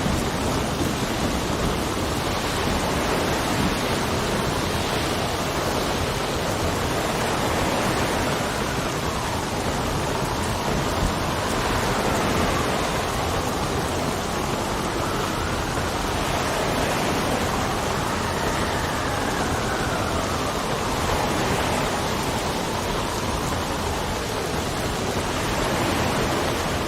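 Steady rain with wind, an even hiss at a constant level; through the middle a faint wind whistle rises and falls in pitch.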